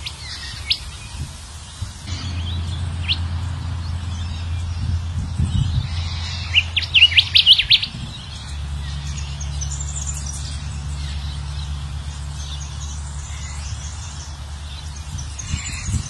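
Kancilan emas (golden whistler) song used as a lure call. It starts with a few separate thin notes, then a quick, loud run of chirps about seven seconds in, followed by high twittering. A low steady hum runs under it.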